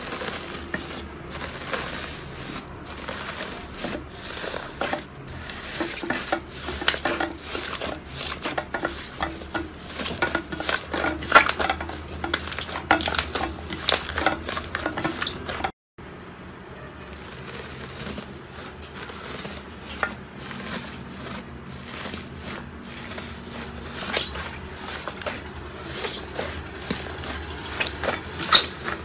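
Slime being squeezed and pressed by hand, with rapid crackling clicks and pops from the slime. It breaks off briefly about halfway, then carries on with softer crackling.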